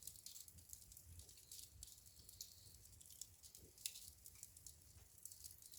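Wood fire crackling in a fireplace: faint, irregular small pops and snaps over a low rumble, with one sharper crack a little under four seconds in.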